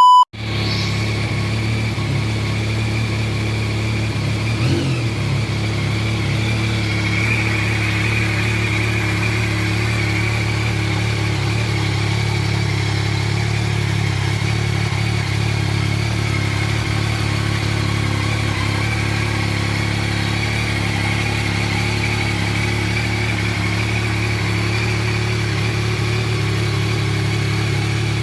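Yamaha Tracer 9 GT's 890 cc inline three-cylinder engine idling steadily through its stock exhaust.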